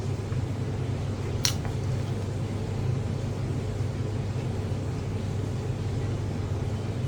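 Steady low mechanical hum of room background noise, with one short sharp click about a second and a half in.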